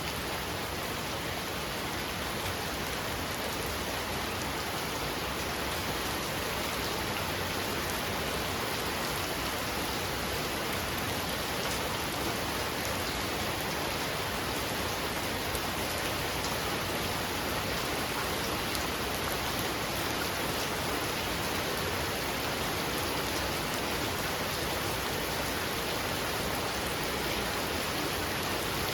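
Heavy rain falling steadily, a dense even hiss of rain on surfaces that stays at one level throughout.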